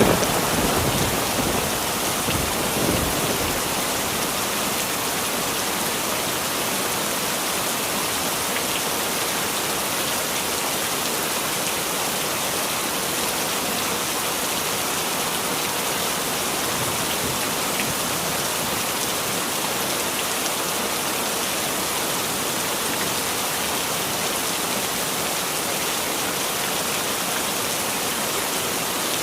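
Heavy rain falling steadily in an even hiss, with the low rumble of thunder fading away over the first few seconds.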